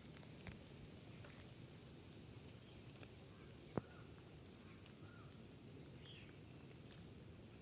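Faint outdoor nature ambience: small birds chirping in short groups of high notes, with a thin, high, steady insect tone and a low rumble of wind. A single sharp click comes nearly four seconds in.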